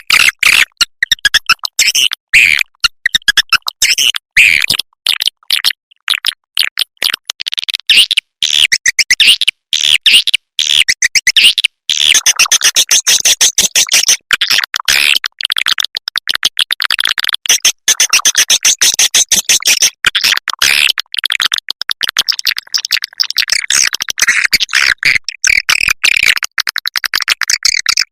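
Recorded swiftlet calls: a dense, continuous stream of rapid chirps and clicks from many swiftlets layered together, played as a lure sound to draw swiftlets to a nesting house.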